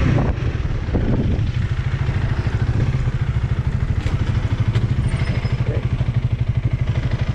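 Honda Rebel 300's single-cylinder engine running at low revs, a steady, rapid, even pulsing.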